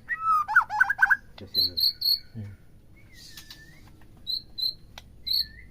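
White-rumped shama (murai batu) singing: a rapid run of sliding whistled notes in the first second, then scattered short high chirps and a few brief gliding whistles.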